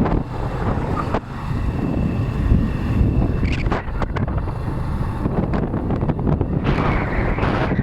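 Wind buffeting the microphone on a moving motorcycle taxi, with the motorcycle's running and road noise underneath. A few brief higher sounds pass about halfway through and near the end.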